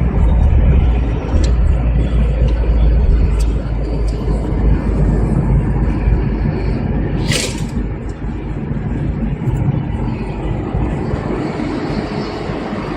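Chevrolet Monza SL/E car on the move, with a steady low engine and road rumble. A brief hiss comes about seven seconds in.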